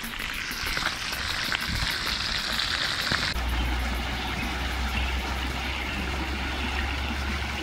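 Hot oil sizzling as a fish fries in a pan over a wood fire, cut off abruptly about three seconds in and followed by a steady low rumble.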